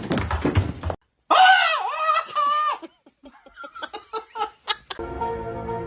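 A high-pitched squealing voice with bending pitch, followed by a run of short, rapid giggle-like pulses. Music with held notes starts about five seconds in.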